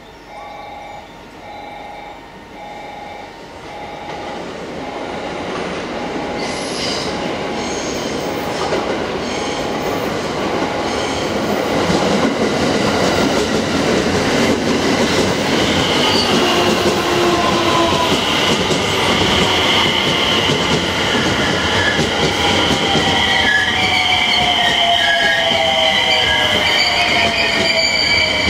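JR West 321 series electric train pulling into the station and slowing to a stop, growing loud from about four seconds in. Its wheels clatter and squeal over the crossover and points. A motor whine falls in pitch as it brakes. A short repeating tone sounds in the first few seconds.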